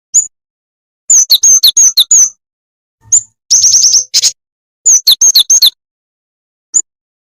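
Jingjing tetep bird call played as a lure: sharp, high chirps, a single note near the start, then three quick runs of notes, one a fast trill in the middle, and a lone chirp near the end, with dead silence between.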